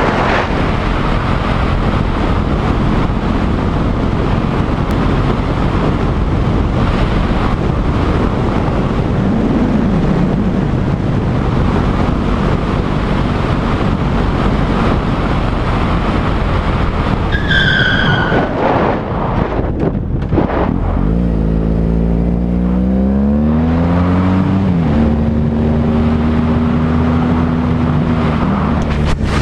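BMW R1100S boxer-twin motorcycle riding at speed, with heavy wind rush over the engine. About two-thirds of the way through there is a brief high squeal and the sound breaks up. Then the engine revs back up, rising in pitch through the gears, and settles to a steady drone.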